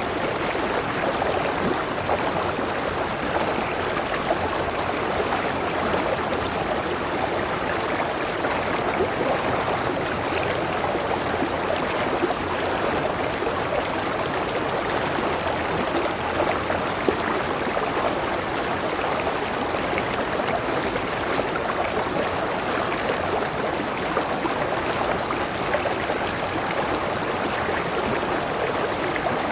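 River water flowing steadily, an even rushing sound that holds without breaks or changes.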